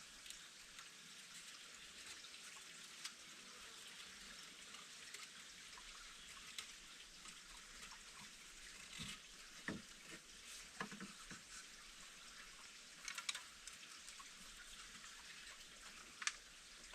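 Faint, steady patter of light rain, with scattered louder drips and taps, a cluster about halfway through and another near the end.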